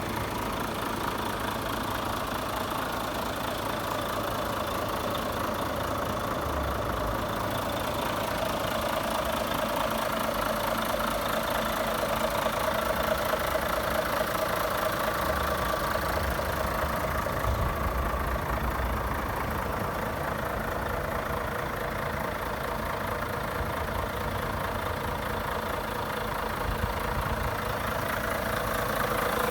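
Volvo FH500's 13-litre straight-six diesel engine idling steadily.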